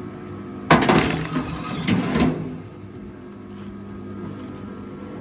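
A log splitter's motor running steadily, with a loud burst of cracking that starts just under a second in and lasts about a second and a half, as a log splits apart.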